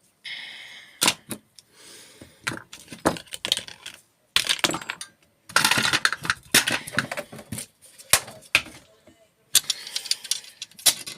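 Irregular clinks, rattles and clatters of small metal parts being handled and dropped as a microwave is taken apart by hand, with short pauses between bursts and a brief metallic ring near the start.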